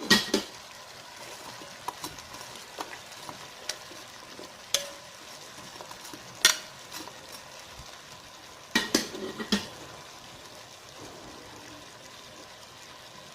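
Chicken pieces with carrots and potatoes sizzling in a pan while being stirred, the utensil knocking and scraping against the pan in short clusters: right at the start, around five and six and a half seconds in, and several times near nine seconds.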